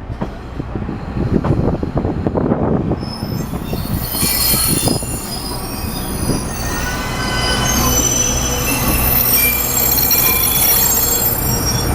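Wheels of a two-car 40-series diesel railcar squealing against the rail in several high, shifting tones from about three seconds in, over the low rumble of the running train. Before the squeal starts there are a few knocks from the wheels on the track.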